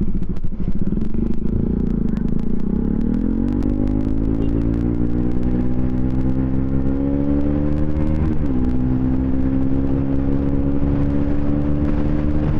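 Bajaj Pulsar NS200 single-cylinder engine breathing through an aftermarket twin-pipe exhaust, heard on board while the bike accelerates. Its pitch climbs steadily, drops at an upshift about eight seconds in, then climbs again.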